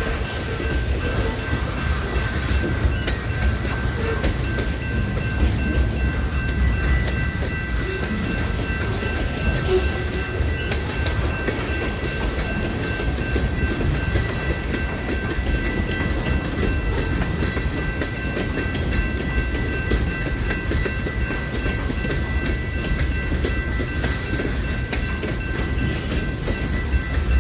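Train rolling along the track with a steady low rumble and faint steady high-pitched tones over it.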